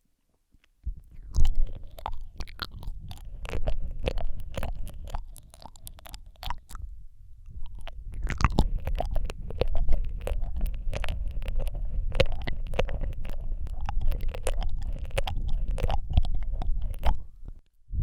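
Wet mouth sounds right at a microphone: rapid tongue clicks, lip smacks and licking over a low breathy rumble. They come in two long runs with a brief lull about seven seconds in.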